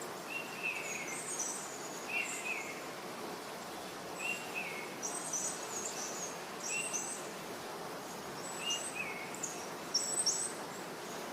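Birds singing over a steady rushing noise: one bird repeats a short falling phrase about every two seconds, while others give bursts of high chirps.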